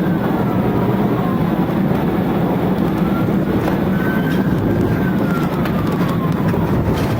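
Police car siren wailing, rising and falling slowly about every four seconds, over steady engine and road noise from the moving vehicle.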